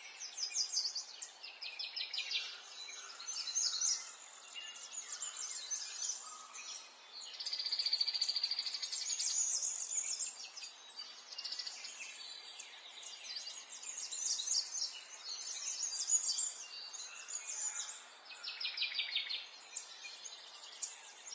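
Several songbirds singing and calling over one another, with rapid chattering trills and a longer buzzy trill about a third of the way in, over a steady soft background hiss.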